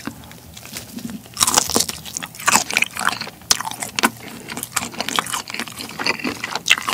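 Close-miked chewing of a mouthful of black tiger shrimp meat dipped in sweet chili sauce: a run of short, quick chewing sounds that grows louder about a second and a half in.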